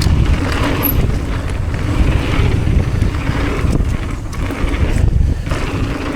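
Wind buffeting the action camera's microphone: a loud, steady low rumble with no clear tones.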